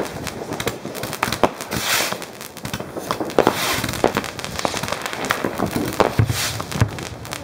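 New Year's Eve fireworks going off: an irregular run of sharp bangs and crackles from rockets and firecrackers, with a few stretches of hiss between them.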